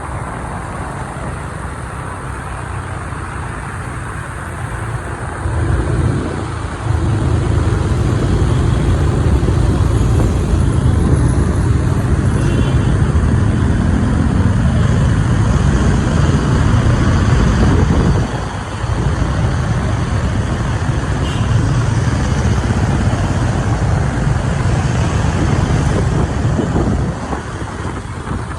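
Motorbike riding through city traffic: steady engine, road and traffic noise with a heavy low rumble, growing louder about a quarter of the way in and easing off near the end.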